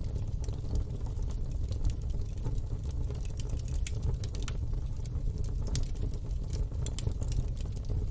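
Fire in a fire pit crackling, with frequent sharp pops and snaps over a steady low rumble.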